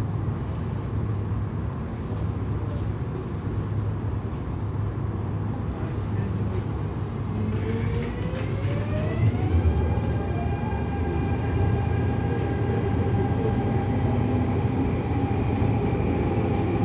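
MTR Tung Chung Line CAF train running on the track with a steady low rumble. About halfway through, its traction motors' whine rises in pitch as the train accelerates, then holds at one steady pitch.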